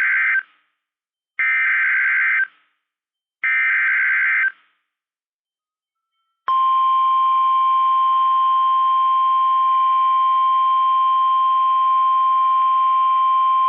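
NOAA Weather Radio SAME (Specific Area Message Encoding) alert header: short buzzy bursts of digital data, about a second each and a second apart. About six seconds in, the steady 1050 Hz Warning Alarm Tone begins, the signal that a warning is about to be broadcast.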